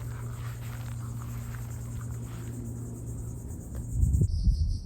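Steady insect buzz, crickets or similar, over a low steady hum. A few muffled low thumps come near the end.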